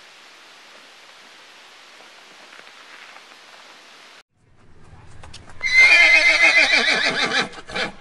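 A faint steady hiss for about four seconds. Then, after a brief break, a horse whinnies loudly for about two seconds, a quavering call that falls in pitch at the end, followed by a few sharp clicks.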